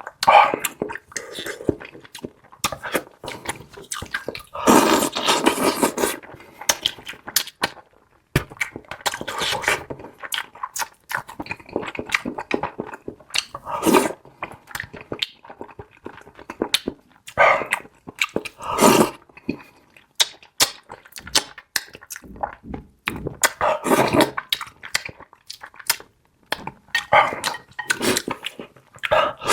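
A person eating noisily close to the microphone: wet chewing, lip smacking and slurping in irregular bursts, with sharp clicks in between.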